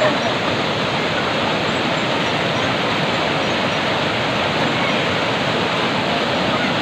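Steady, loud rush of flowing water, even and unbroken.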